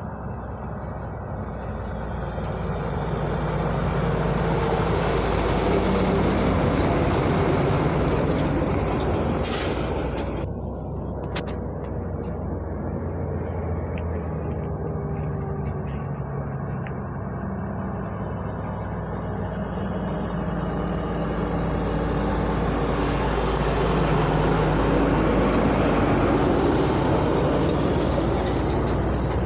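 Heavy trucks' diesel engines running, their pitch stepping up and down and their loudness swelling twice. A short hiss comes about ten seconds in, followed by a few brief high squeaks.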